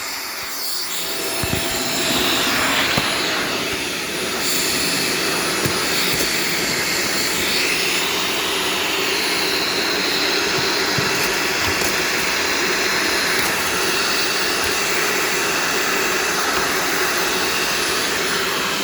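Shark Stratos vacuum cleaner running steadily at full suction, with a few short sharp clicks in the first half.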